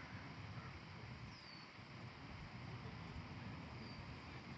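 Outdoor ambience: a steady low rumble of wind on the microphone, with a faint, rapid high insect chirping, about five pulses a second. A bird gives two short falling whistle notes.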